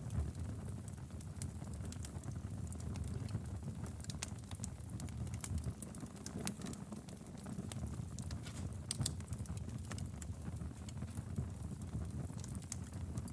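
Fireplace fire crackling: a steady low rumble of burning with irregular sharp pops and snaps scattered throughout.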